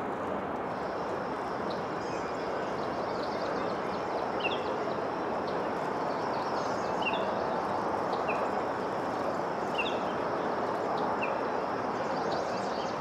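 Outdoor ambience: a steady broad rush with short, falling bird chirps every second or two. A thin, high, steady tone joins about a second in.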